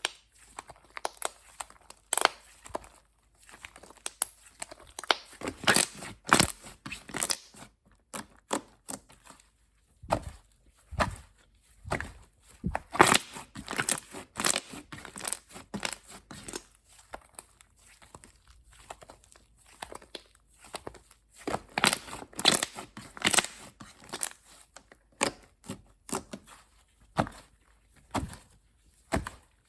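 Slime being squeezed, stretched and pressed by hand, giving irregular bursts of sticky crackling and popping with short pauses between them.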